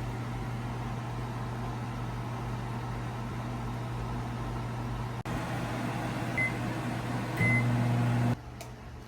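A steady machine hum with two short high beeps about a second apart near the end. Just after the second beep the hum swells briefly, then cuts off suddenly.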